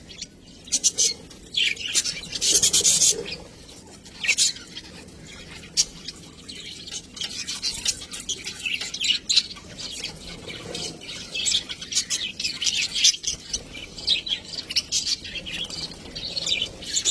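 Budgerigars chirping and chattering in a steady run of short, high chirps, with louder bunches of calls now and then.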